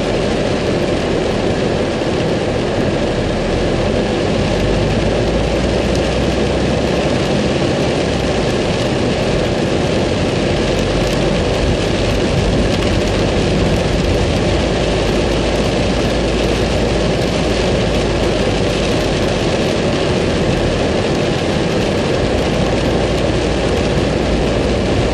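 Heavy rain hitting a car's roof and windscreen, heard from inside the moving car. It makes a steady, dense hiss with fine drop ticks over a low engine and road rumble.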